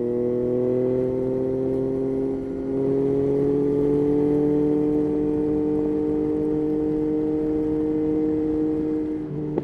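Yamaha Tracer 9's 890 cc three-cylinder engine pulling under throttle while riding, its pitch climbing slowly and steadily. Its note dips briefly about two and a half seconds in and again just before the end.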